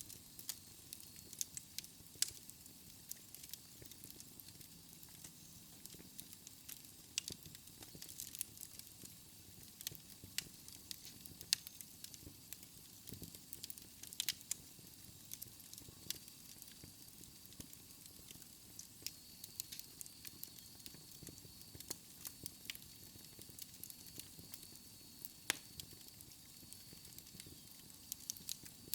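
Wood fire in a fireplace crackling and popping: irregular sharp pops and snaps from burning logs over a faint steady hiss.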